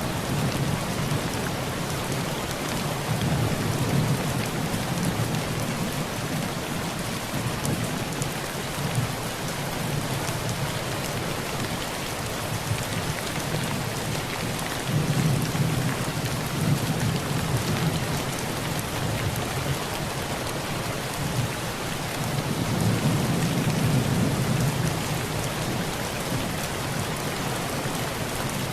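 Heavy rain pouring steadily onto a tin roof, with low rolling thunder swelling up three times.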